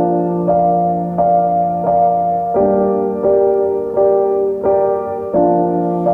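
Background music: gentle piano or electric keyboard playing sustained chords, a new chord struck about every 0.7 seconds in an even rhythm.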